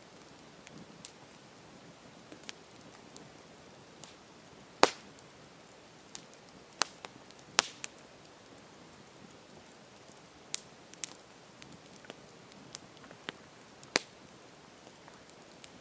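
Campfire crackling: irregular sharp pops and snaps of burning wood over a soft steady hiss, a few louder cracks standing out.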